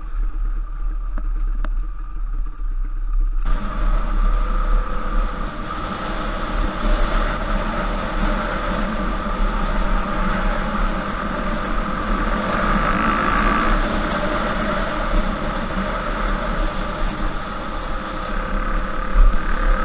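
Trail bike engine running steadily along with a low rumble. About three and a half seconds in, the sound suddenly turns brighter and fuller.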